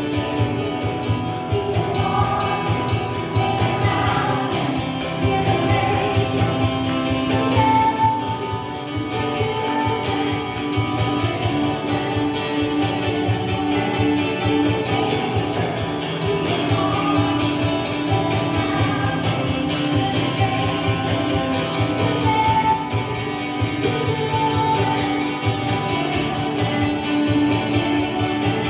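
Gospel worship music: singing voices over guitar and a steady beat.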